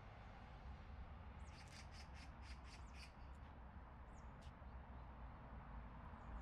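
A bird calling: a quick run of about seven high, sharp notes, then two more single notes a second or so later, faint over a low steady rumble.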